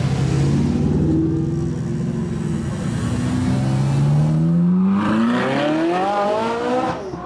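A car engine running low and steady as a car passes close, then a Ferrari 458's V8 revving up hard as it accelerates away, its pitch climbing steadily for about four seconds before dropping off near the end.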